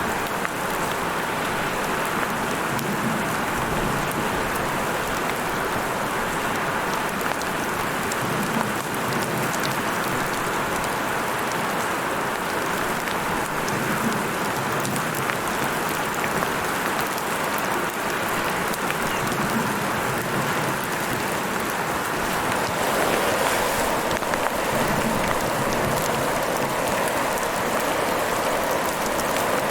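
Heavy rain falling steadily, a dense patter of drops on surfaces. It swells slightly louder a little over three-quarters of the way through.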